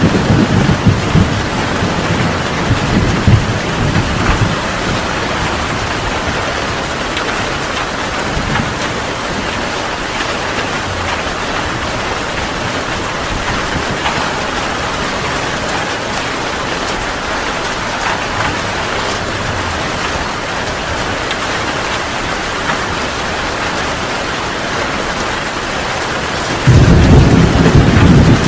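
Heavy rain pouring steadily, with a low thunder rumble dying away in the first few seconds and another loud rumble starting abruptly near the end.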